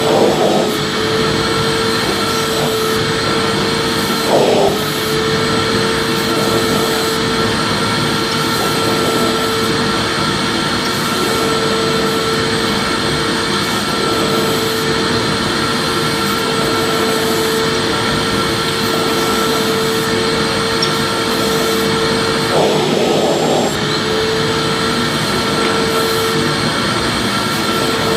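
Vacuum cleaner running steadily: a continuous rush of air with a constant motor hum and whine over it. The hum wavers briefly twice, about four seconds in and again near the end.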